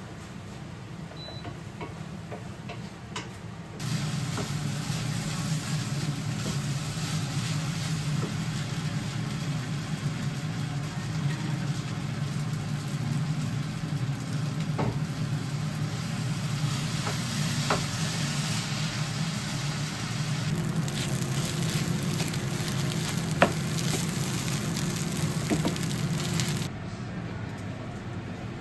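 Rice frying in a pan, sizzling steadily under a low hum, with a spatula tapping and scraping the pan now and then. The sizzle starts about four seconds in and cuts off suddenly near the end.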